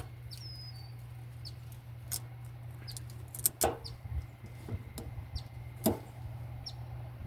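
A few faint, brief high chirps from small birds, among scattered sharp clicks and knocks, over a low steady hum.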